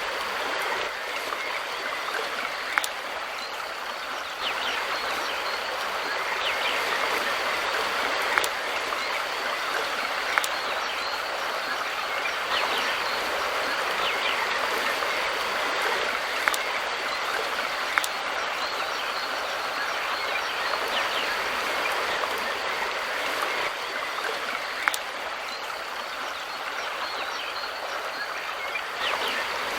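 Mountain river rushing steadily over rocks, with about six brief sharp clicks scattered through it.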